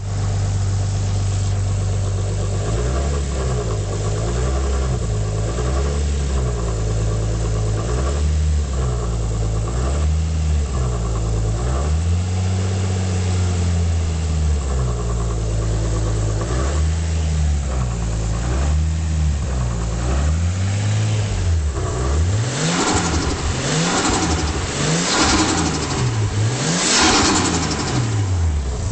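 Nissan RB25DET turbocharged straight-six idling and being blipped over and over, the revs rising and falling in quicker succession near the end. At idle it carries an annoying noise from the front of the head that disappears when revved and returns as the revs drop, which the owner takes for a timing belt or head problem, typical of RBs, with the timing belt loose and a little slappy.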